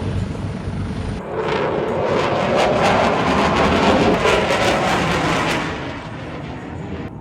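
Aircraft flying past: a loud engine roar that starts abruptly about a second in, holds for several seconds, and fades away after about five seconds.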